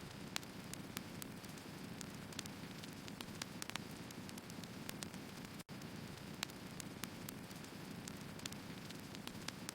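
Firewood burning: a steady low rush of flames with frequent irregular crackles and sharp pops of the wood. The sound drops out for an instant about five and a half seconds in.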